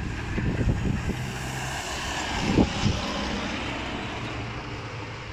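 Diesel freight train pulling out, heard from a distance: a steady low engine drone with a faint hiss over it, and a short thump about two and a half seconds in.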